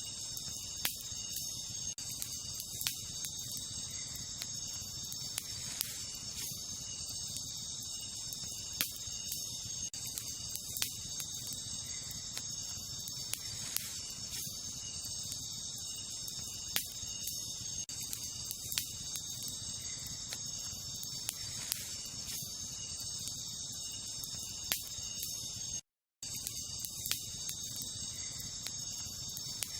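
Wood campfire crackling, with scattered sharp pops every second or two, over a steady high trilling of night insects. The sound drops out completely for a split second near the end.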